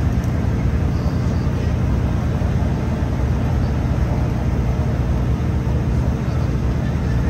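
Interior running noise of a Class 165 diesel multiple unit under way: a steady low drone from the underfloor diesel engine and the wheels on the rails, unchanging throughout.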